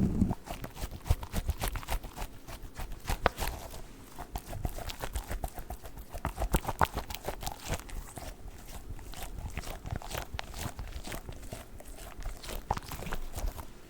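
Squishy dog-shaped toy being squeezed and handled close to the microphone: a dense, irregular run of soft sticky crackles and clicks.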